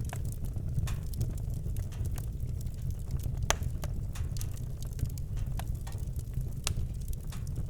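Campfire crackling, with frequent irregular sharp pops over a steady low rumble; the loudest pop comes about three and a half seconds in.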